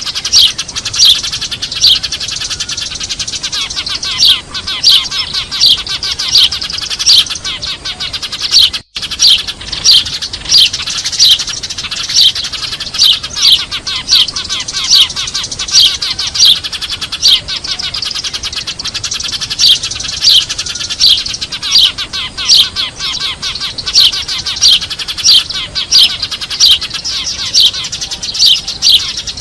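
A flock of Eurasian tree sparrows chirping noisily and without a break, many overlapping calls with louder chirps standing out about once or twice a second. The sound drops out for a moment about nine seconds in.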